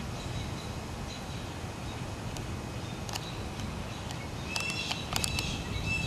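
A low, steady outdoor rumble with a bird chirping several times in quick, high calls near the end.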